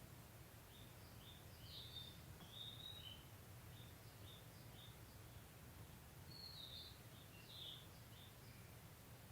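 Faint birdsong: short high chirps from small birds at irregular intervals, over a low steady background rumble.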